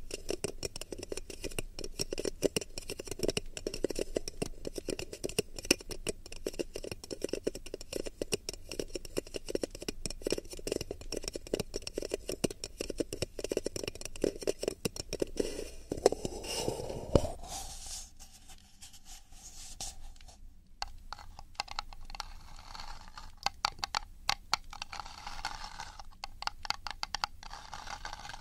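ASMR ear triggers: fingers rapidly tapping and scratching on the ears of a binaural microphone, many light clicks a second. About two-thirds of the way in there is a short falling sweep and a quieter moment, then the tapping resumes with a brighter sound.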